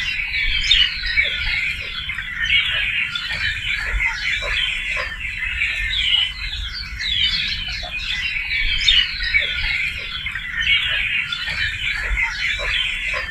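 A dense chorus of many birds calling and singing at once, a continuous twittering mix of chirps, with short lower calls scattered through it.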